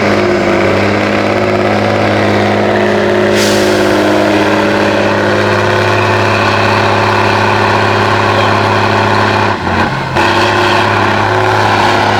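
Tatra 813's air-cooled V12 diesel running steadily under load, with a short hiss a few seconds in and a brief dip in the engine note near the end.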